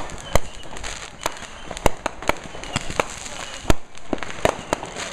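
Fireworks and firecrackers going off in an irregular string of sharp bangs, about a dozen in five seconds, some close and loud, others fainter and farther off.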